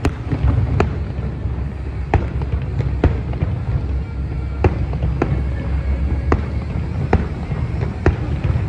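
Fireworks going off: sharp cracks about once a second at uneven intervals, over a steady low rumble of bangs.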